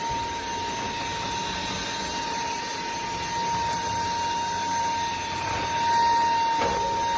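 Cordless stick vacuum running, a steady high motor whine over rushing air.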